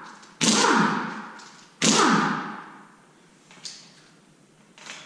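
Power tool spinning out the rocker arm bolts on an LS V8 cylinder head in short bursts. Twice, and again at the very end, a burst starts suddenly and falls in pitch as it winds down over about a second. A faint click comes in between.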